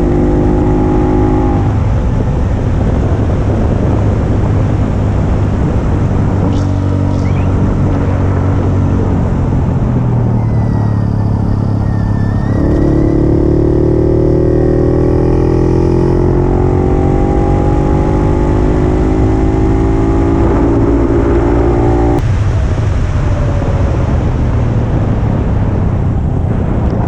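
Puch 250 TF's two-stroke engine running under way, its note changing with throttle. The pitch climbs steadily for a stretch, then drops off sharply about 22 seconds in.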